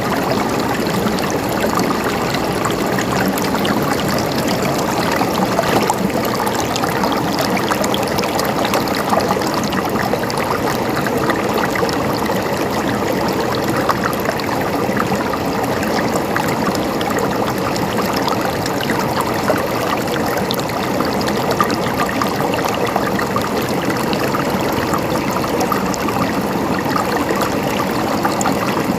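Running water, a stream gurgling and trickling in a steady, unbroken flow with fine splashing throughout.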